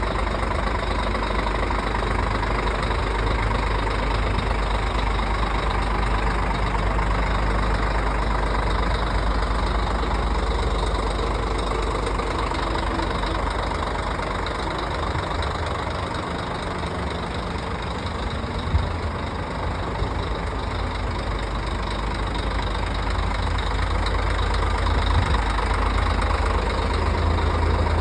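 Scania R440 truck's 13-litre inline-six diesel idling steadily, with a single brief click about two-thirds of the way through.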